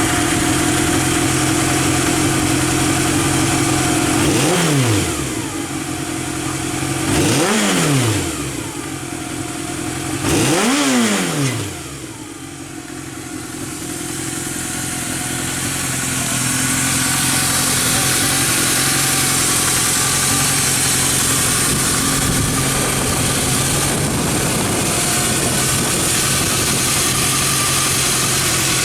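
Kawasaki Z650's air-cooled inline-four engine idling just after starting, blipped three times in short revs about three seconds apart, each rising and falling straight back to idle. It then settles into a steady idle that grows louder for a few seconds before holding level.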